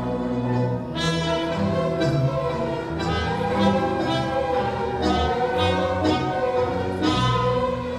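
Student symphony orchestra playing a tango arrangement, bowed strings to the fore, with accented chords about once a second.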